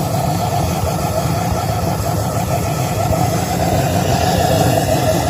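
An engine running steadily, a loud constant drone with no change in speed.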